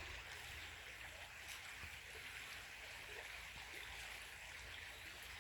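Faint, steady rushing of a creek's flowing water.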